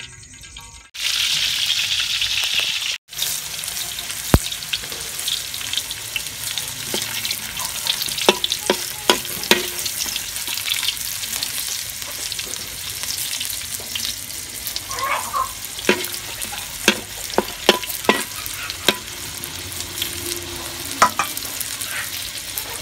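Mussel meat frying in hot oil in a steel wok: a loud burst of sizzling in the first few seconds, then steady sizzling with scattered sharp taps and clicks.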